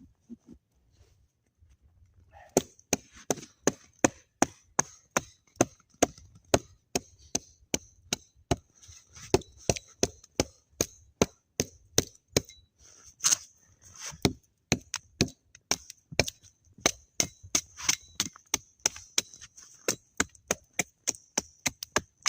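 A long, even series of sharp crunching knocks, about three a second, starting about two and a half seconds in.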